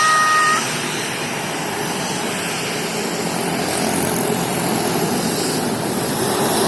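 Express Air airliner's engines running with a steady, loud rush of noise. A high two-note whine cuts off about half a second in, and the sound is a little quieter after that.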